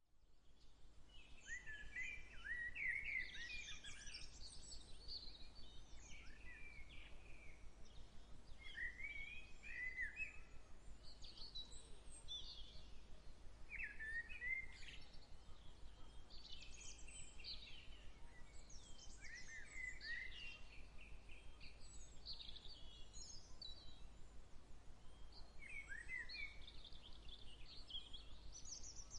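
Songbirds singing outdoors: short, quick, gliding song phrases repeated every second or two throughout, over a faint steady low rumble.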